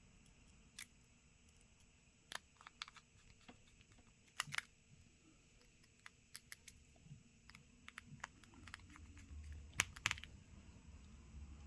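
Faint, irregular small clicks and taps of precision tools on a smartphone's small screws and internal brackets, with the sharpest pair about ten seconds in.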